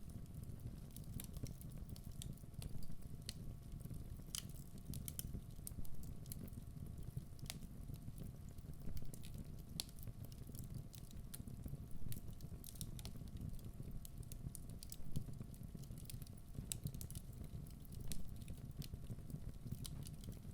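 Wood fire burning in a fireplace: a steady low rumble with many small crackles and pops, and a louder pop about every three seconds.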